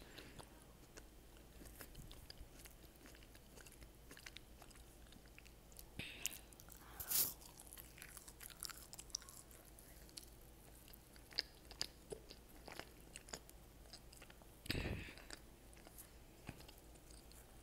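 Close-miked chewing of a breaded jalapeño popper: faint, wet mouth sounds and scattered small crunches and clicks, with two louder bursts of crunching about six and fifteen seconds in.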